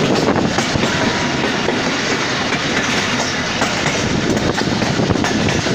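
Passenger train running along the track, heard from the open side of a moving coach: a steady rumble and rattle of wheels on rails, with scattered clicks over the rail joints.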